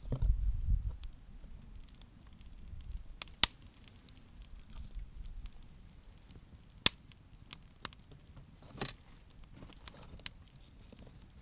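Wood campfire crackling, with scattered small ticks and several sharp pops from the burning wood. A low rumble in the first second.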